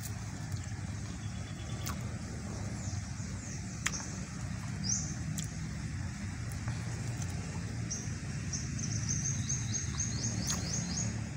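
Birds chirping over a steady low outdoor rumble, with a quick run of short, falling chirps from about eight seconds in. A few faint clicks are scattered through it.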